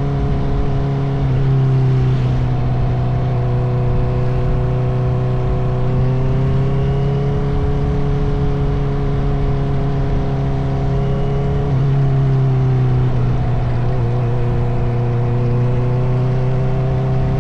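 Honda CBR650R's inline-four engine through an Akrapovic titanium exhaust, running at fairly steady cruising revs with gentle rises and falls in pitch. The engine note dips about twelve seconds in, then climbs again, over a low rumble.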